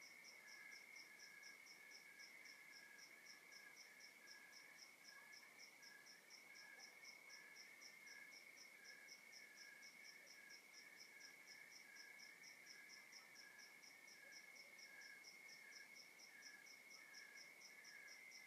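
Faint chorus of night crickets: one gives an unbroken high trill, another chirps steadily about twice a second, and a higher, thinner pulsing repeats about three times a second.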